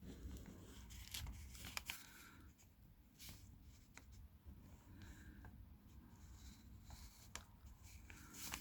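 Near silence with faint rustling and a few light clicks: printed wiring-diagram pages being handled and leafed through.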